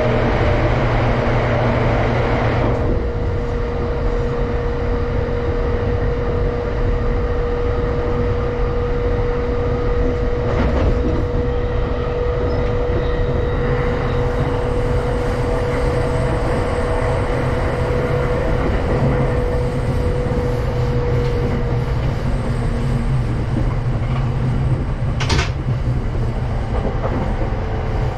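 JR East Tokaido Line commuter train running on the rails, heard from inside the car: a steady rumble of wheels and running noise, louder for the first few seconds. A held tone runs through most of it and fades out about three-quarters of the way in, and a brief high-pitched squeal comes a few seconds before the end.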